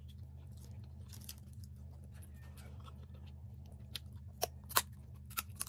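A person chewing rice and crab, with several sharp crunches of crab shell being bitten in the second half, over a steady low hum.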